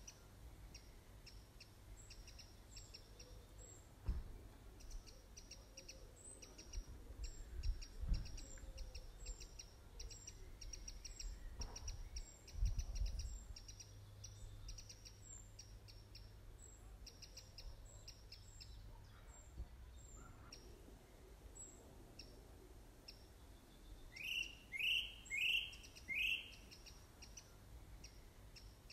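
Birds chirping: a fast run of short, high chirps goes on through most of the stretch, and near the end come four louder rising calls in quick succession. A few low thumps sound in the first half.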